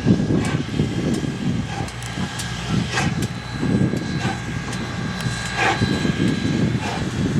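US Sugar No. 148, a 4-6-2 steam locomotive, working with its exhaust chuffing in uneven low pulses. A steady high whine runs under it.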